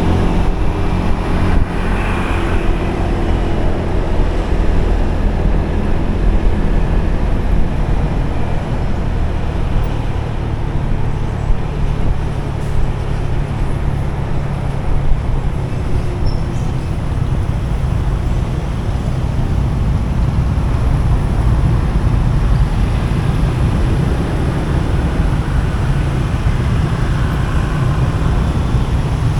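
Steady road rumble of traffic and a motorbike in motion on a busy highway, heavy in the low end and even in level throughout.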